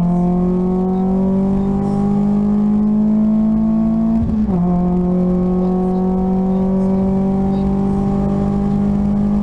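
VW Lupo GTI's 1.6-litre four-cylinder engine under hard acceleration, heard from inside the cabin: the pitch climbs steadily, drops sharply at an upshift about four seconds in, then climbs again.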